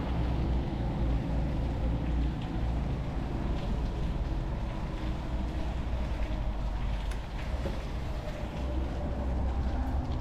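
Steady low rumble of wind and riding noise on the camera of a mountain bike climbing a forest road, with scattered small ticks and clicks from the tyres and bike.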